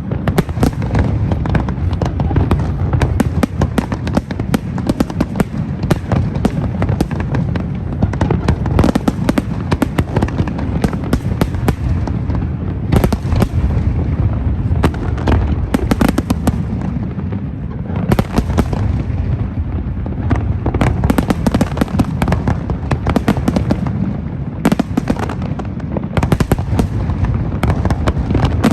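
Fireworks display going off continuously: a steady rumble of deep bursts overlaid with rapid sharp bangs and crackling, growing denser about halfway through and again near the end.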